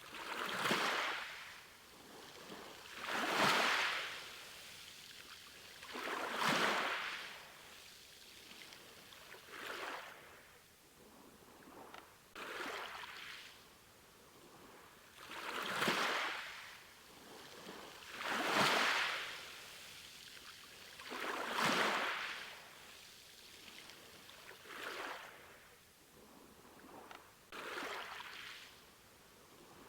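Sea waves washing onto a shore, one swell of surf rising and falling about every three seconds.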